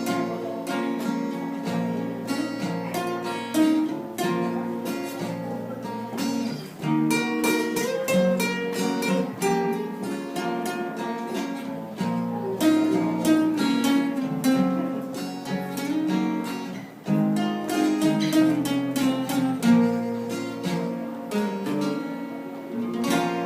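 Instrumental passage of a live song on acoustic guitar, plucked and strummed chords with no singing, dying away near the end.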